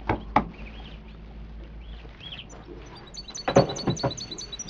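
Small songbirds chirping. About halfway through, a rapid run of high, repeated notes begins and builds. Two sharp knocks come right at the start.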